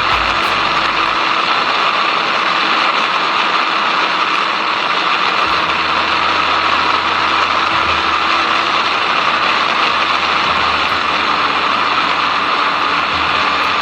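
Motorcycle riding at speed: a loud, steady rush of wind over the microphone with the engine's drone underneath, holding an even pace without gear changes.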